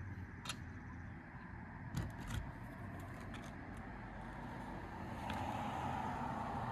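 A few sharp metal-on-shingle taps and clicks from roofing hand tools working nails, with a cluster of them about two seconds in. A steady background rumble swells about five seconds in, like a vehicle passing.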